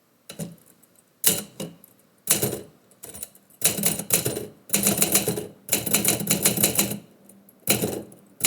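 Typewriter typing in bursts: a few separate clusters of key strikes, then a long run of rapid keystrokes in the middle.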